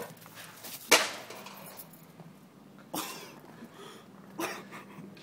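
Three separate sharp knocks about two seconds apart over a low background, the first the loudest.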